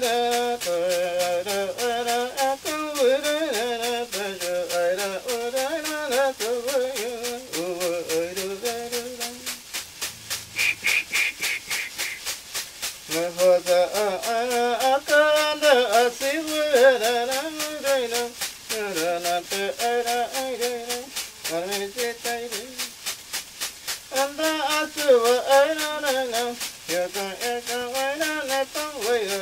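A voice singing a winding chant over a rattle shaken in a steady fast beat. The singing stops for a few seconds about ten seconds in while the rattle keeps going, then resumes.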